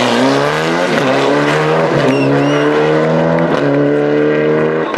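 Rally car engine accelerating up through the gears, the pitch climbing and then dropping back at each of several upshifts.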